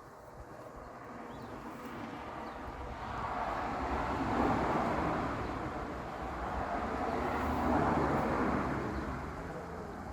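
Rushing noise of a passing vehicle, swelling and fading twice, loudest about four and eight seconds in.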